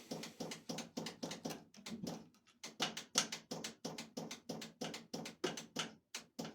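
A truck's starter solenoid clicking rapidly and evenly, about four or five clicks a second, while the starter motor itself does not turn: the starter is seized and frozen.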